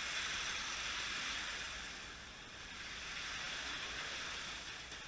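Slot cars racing around the track, their small electric motors and pickup braids making a steady high whirring hiss that swells and fades as the cars come past.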